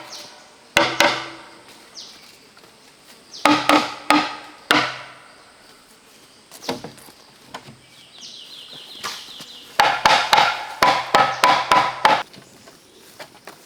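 Bamboo being chopped: sharp strikes, each ringing with a short hollow note. A couple of blows come about a second in, a quick set around four seconds, and a fast run of about a dozen near the end.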